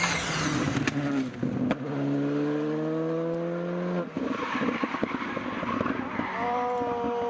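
Rally car engine under hard throttle, its note climbing steadily for about two seconds before cutting off abruptly. Near the end another engine note holds and then drops away quickly.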